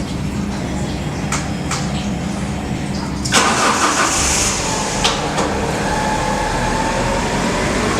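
Alfa Romeo 147 engine through its stock exhaust: a steady low rumble, then a sudden louder burst about three seconds in, after which the engine runs on with a faint, slowly rising whine.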